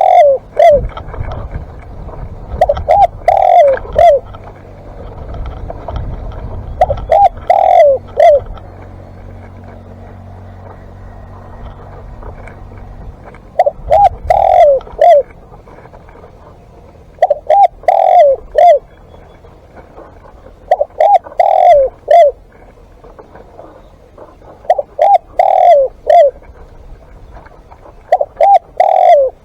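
Spotted dove cooing: a repeated phrase of several short coo notes, one phrase every three to four seconds.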